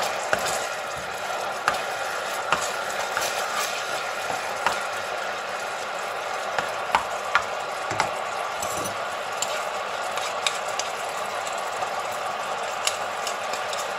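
Coconut cream and panang curry paste bubbling and sizzling in a frying pan while a spatula stirs it, with scattered clicks and scrapes of the spatula on the pan. This is the stage of frying the paste in the split coconut cream until it turns fragrant.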